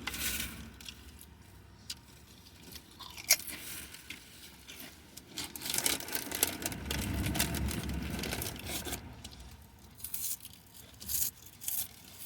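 Close-up eating sounds: chewing and crunching food, with scattered short crackles and clicks. It grows louder for a few seconds past the middle.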